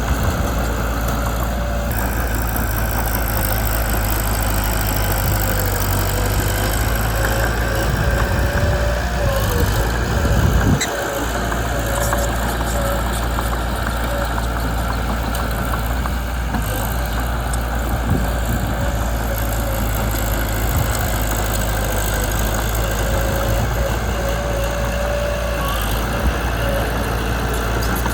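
Mitsubishi BD2 small bulldozer's diesel engine running steadily, swelling louder about eight to eleven seconds in and then dropping back. A thin squeal comes and goes over the engine.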